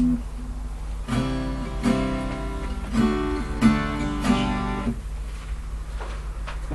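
Acoustic guitar strummed: about five chords struck roughly a second apart in the middle of the stretch, then the strings ring on quietly. A steady low hum lies underneath.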